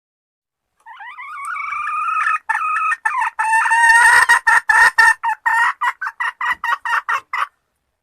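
Junglefowl hen calling for a male: a drawn-out call that grows louder from about a second in, running into a quick series of clucks, about four a second, that stops abruptly near the end.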